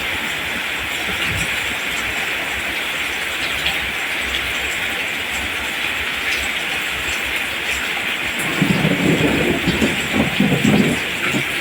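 Steady rain falling, an even hiss. About two-thirds of the way in, an uneven low rumble joins it for a few seconds.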